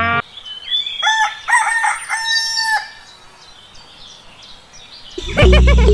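A rooster crowing: one multi-part call lasting about two seconds. Loud background music comes back in near the end.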